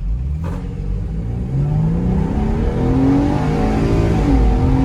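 Ford van's gasoline V6 accelerating hard from a standstill, its pitch climbing steadily. About four seconds in the pitch drops briefly as it shifts up, then climbs again.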